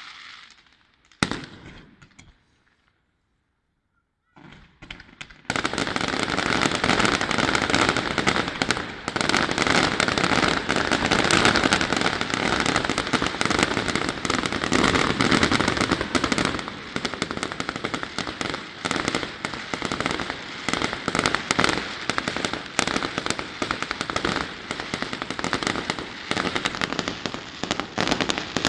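Fireworks display: a single sharp bang about a second in, then a brief lull. From about five seconds in comes a dense, unbroken barrage of rapid crackling bangs.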